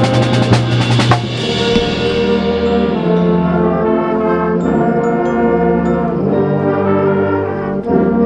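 Concert band music: a quick run of drum strokes ending in a cymbal crash about a second in, then the brass and winds holding sustained chords that change every second or so.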